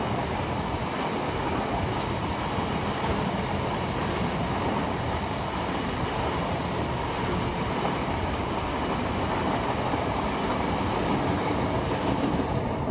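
Passenger train passing at speed: a steady rumble of wheels on the rails that starts to fade right at the end as the last coach goes by.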